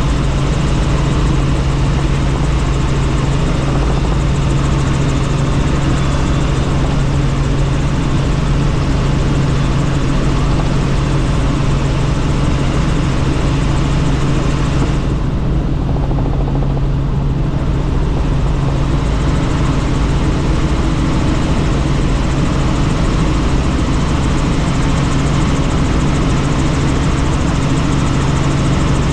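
Helicopter in flight, heard from inside a doors-off cabin: a loud, steady rotor and engine drone under a rushing hiss. The higher hiss fades for a few seconds about halfway through, then returns.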